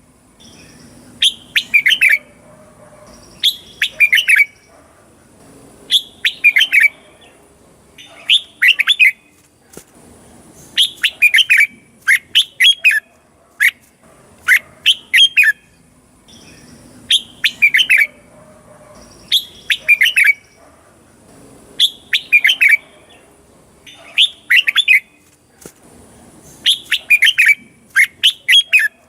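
Red-whiskered bulbul singing: short, loud phrases of quick whistled notes, one phrase about every two seconds.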